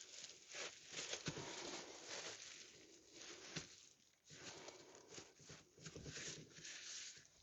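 Faint, irregular rasping strokes of a seat's foam padding being shaped by hand, sanded or pared down.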